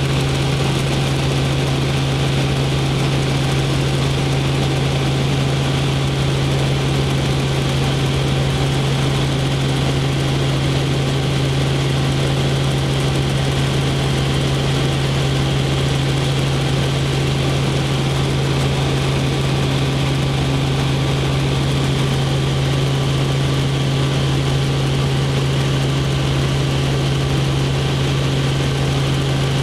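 Helicopter in flight, heard from inside the cabin: a loud, steady drone with a strong low hum that does not change.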